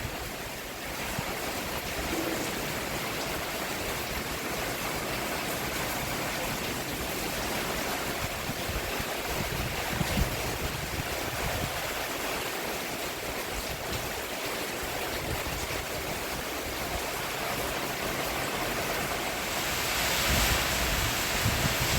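Steady rain falling on a roof: an even hiss that swells slightly near the end.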